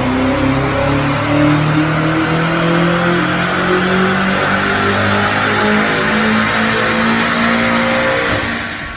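BMW M5 F90's twin-turbo 4.4-litre V8 at full throttle on a chassis dynamometer, its pitch climbing steadily as it revs up through a gear, then backing off near the end.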